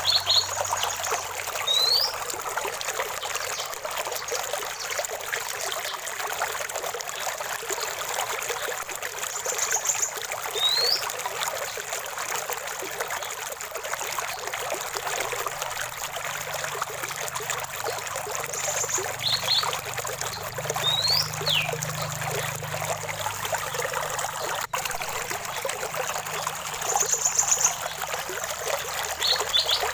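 Running water of a stream flowing steadily. A bird sings short, scattered calls over it every few seconds: quick upward-sweeping whistles, brief double chirps and high short notes.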